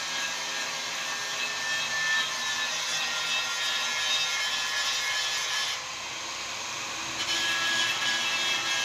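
Continuous abrasive scraping on a motorcycle's metal fuel tank during repair, with a rough, hissy texture that eases briefly about six seconds in.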